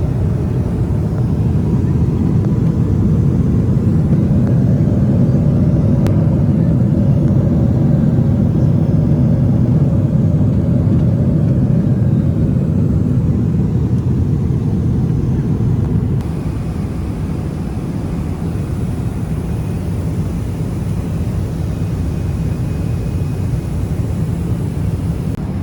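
Steady low rush of engine and airflow noise inside the cabin of a Boeing 777 airliner in cruise. It drops slightly about two-thirds of the way through.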